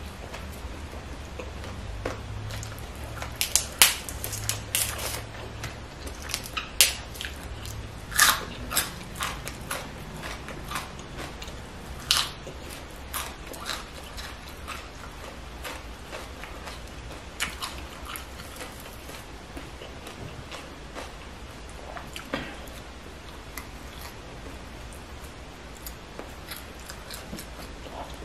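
Close-up eating sounds: chewing and biting food, with scattered sharp crunches and mouth smacks, most frequent in the first half.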